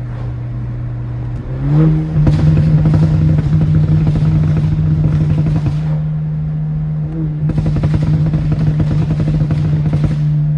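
BMW N20 turbocharged 2.0-litre four-cylinder in an F32 4 Series, exhaust under hard acceleration at a fairly steady pitch with a dense rattly crackle. It steps up in pitch and loudness about a second and a half in and dips briefly about seven seconds in.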